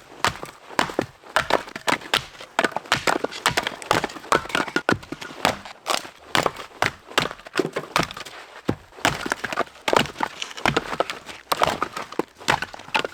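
A dense, irregular run of sharp cracks and snaps, several a second.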